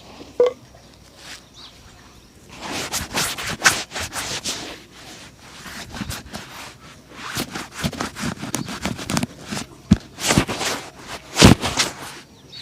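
Shoe-shine work on a shoe: three runs of quick scraping and rubbing strokes, with a few sharp knocks, the loudest near the end.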